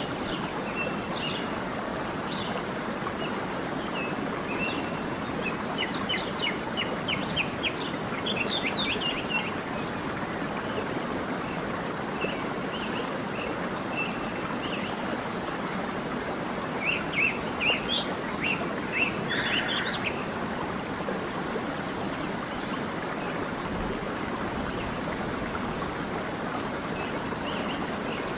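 A creek rushing steadily, with birds chirping over it in short bursts of high calls, busiest about a quarter of the way in and again past the middle.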